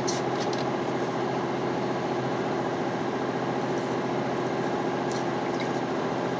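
Heavy truck's diesel engine running steadily under load, heard from inside the cab, as the truck pulls up a snowy hill.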